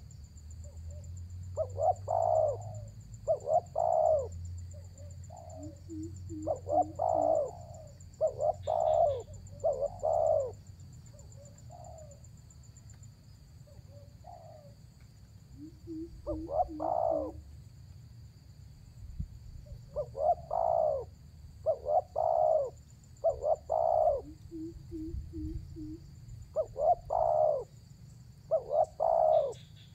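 Spotted dove cooing: repeated phrases of a few quick soft low notes followed by several louder coos, with a lull of a few seconds around the middle.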